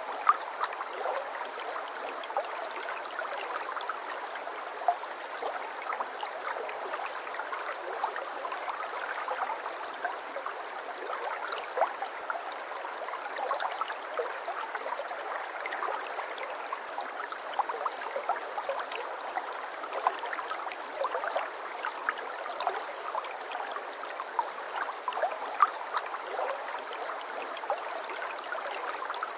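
Shallow babbling brook running over stones: a continuous burble with many small splashes and gurgles scattered through it.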